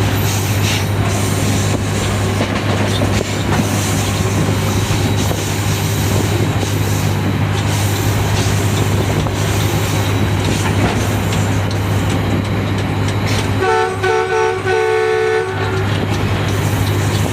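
Diesel locomotive running steadily, heard from inside the cab with rolling noise from the track. Near the end its horn sounds for about two seconds, a few quick stuttering blasts that run into a held note.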